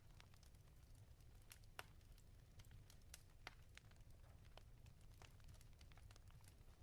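Faint crackling of a wood fire in a fireplace: scattered, irregular snaps and pops over a low steady rumble.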